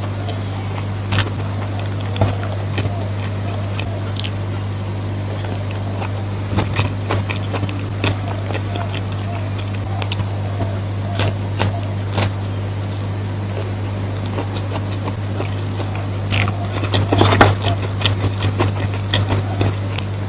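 Eating sounds: scattered clicks and scrapes of a spoon on a plate and chewing, busiest about three-quarters of the way through, over a steady low electrical hum.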